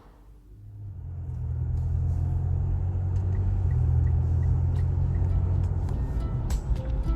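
Low, steady rumble of a car on the road, building about a second in and then holding steady.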